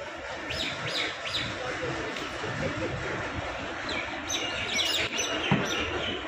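Small birds chirping: a few short high chirps about a second in, then a quicker run of chirps a little after four seconds in.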